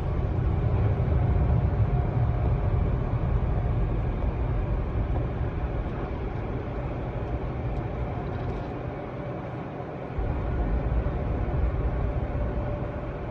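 Steady low rumble of a car heard from inside the cabin. It eases off briefly near the end, then comes back abruptly.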